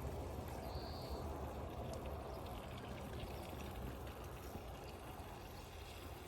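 Water pouring or trickling steadily, slowly easing off.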